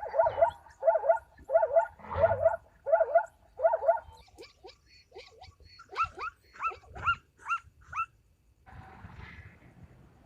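A dog barking: a quick, even series of about six barks, then a run of shorter, higher calls.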